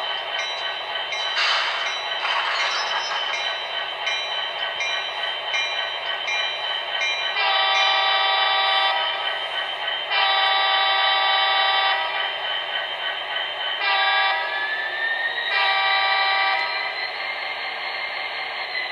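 MTH HO-scale SD70ACe model locomotive's factory sound file through its small onboard speaker: a thin diesel engine drone with the airhorn blown twice long, once short, then long again. A whine rises and falls near the end.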